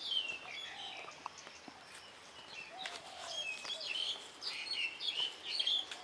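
Morning birdsong: several birds chirping and twittering in quick phrases, busiest at the start and again through the second half, with a few lower whistled notes between.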